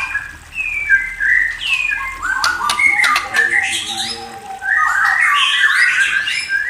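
Murai songbird singing: a varied run of whistled notes and downward-sliding calls, with a few sharp clicks about halfway through and a dense burst of notes near the end.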